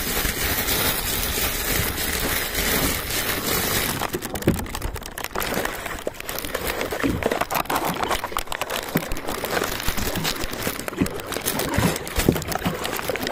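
Crinkly rustling and crackling right on the phone's microphone: a dense hiss for about the first four seconds, then a run of irregular clicks and pops.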